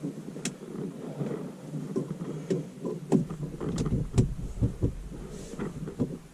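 Irregular clicks, knocks and rustling of hands handling and fitting a plastic dash camera and its wiring, with a low rumble joining about three seconds in.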